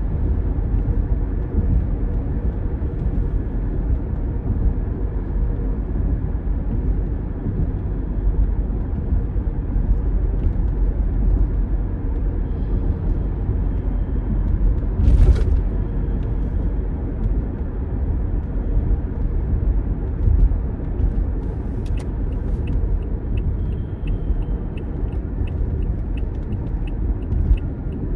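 Steady low rumble of road and engine noise inside a moving car's cabin. There is a single thump about halfway through, and in the last few seconds a regular clicking of the turn signal, about two a second.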